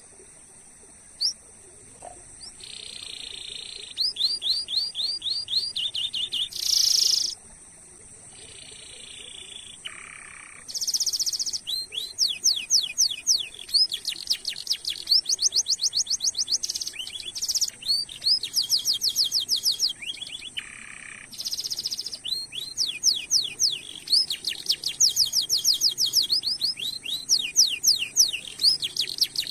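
Domestic canary singing: long rolls of rapidly repeated upward-sweeping notes, broken by short buzzy notes and brief pauses between phrases, over a faint steady high tone.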